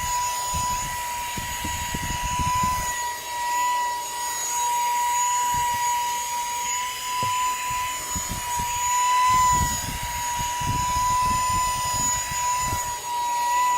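VNOST USB-C handheld car vacuum running on its medium setting: a steady high motor whine with small wobbles in pitch. Under it come low rubbing and knocks from the brush attachment working over the car's hair-covered carpet.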